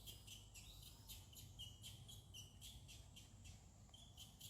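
Faint outdoor ambience: short high-pitched chirps repeating several times a second, over a low steady rumble.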